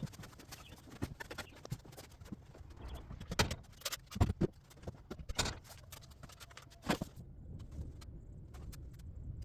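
Irregular knocks, clicks and clatter of things being handled and set down, with the loudest knocks between about three and five seconds in and again near seven seconds.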